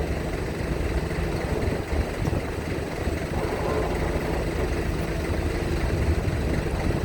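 Engines of heavy vehicles running with a steady low rumble as traffic loads or unloads at a roll-on/roll-off ferry.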